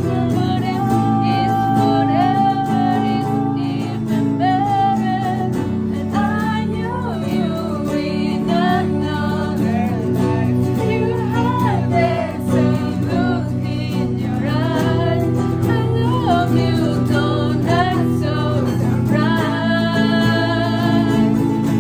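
A song sung by a woman's voice over acoustic guitar accompaniment, the vocal melody gliding in phrases a few seconds long.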